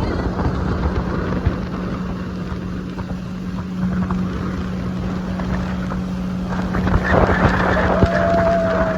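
Motorboat engine running steadily, a constant hum, with wind buffeting the microphone. About seven seconds in, a louder rush of noise sets in, and a thin steady tone follows shortly after.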